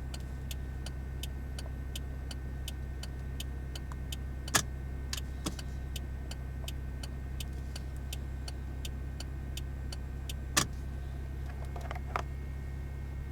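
Toyota Chaser JZX100's straight-six engine idling steadily, with the turn-signal relay clicking about three times a second. Two louder clicks come about four and a half seconds in and near ten and a half seconds, after which the clicking thins out.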